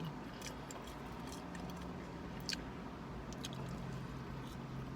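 A person chewing french fries, with small wet clicks and smacks of the mouth, one sharper click about halfway through. A steady low hum runs underneath.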